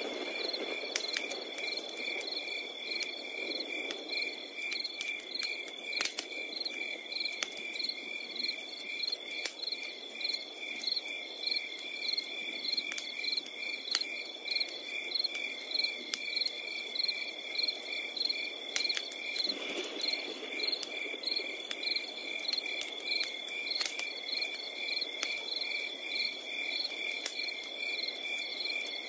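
Night chorus of crickets: a continuous high trill overlaid with regular chirps about twice a second. Occasional sharp crackles and pops of a wood campfire sound through it.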